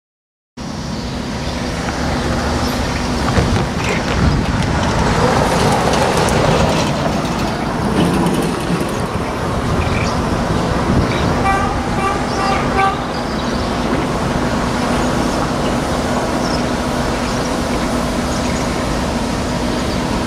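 Diesel freight train approaching from a distance, a steady rumble mixed with wind noise on the microphone. About halfway through, a horn gives about four short toots and a low steady hum comes in.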